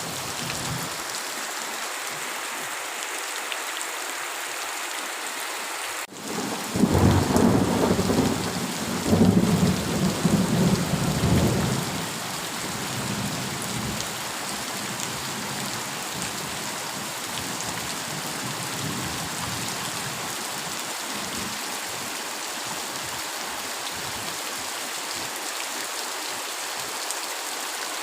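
Heavy rain falling steadily, with a loud roll of thunder from about seven seconds in that rumbles for about five seconds and then fades back under the rain.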